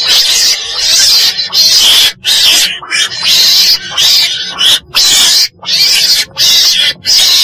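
Chồn đèn, a small mustelid, calling in a long series of harsh, hissing screeches, a little over one a second with short breaks between. This is the call used as a lure for trapping.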